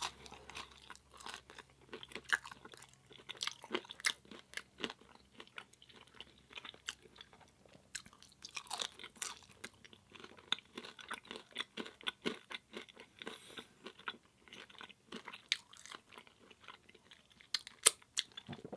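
A person chewing pizza close to the microphone: a steady run of wet mouth clicks and crisp crunches with short pauses between bites.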